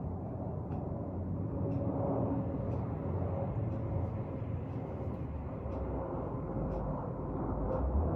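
Jet airliner on landing approach: a low, steady engine rumble with a thin steady whine over it.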